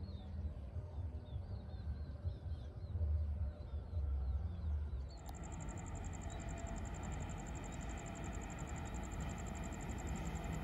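Wind rumbling on the microphone with a few bird chirps. About halfway through this cuts abruptly to a steady outdoor background with a high, evenly pulsing whine, under which a KRL electric commuter train approaches in the distance, still faint.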